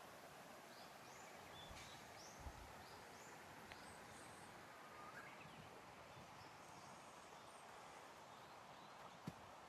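Faint birdsong: a run of short, high, repeated chirps in the first few seconds, then a few fainter calls over a quiet outdoor hush, with a couple of small knocks.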